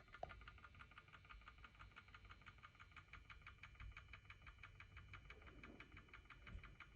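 Bone grinder mill running with a faint, rapid, even clicking, about nine clicks a second.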